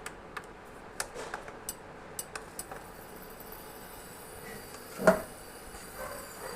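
Light clicks and taps of kitchen utensils, with one louder knock about five seconds in.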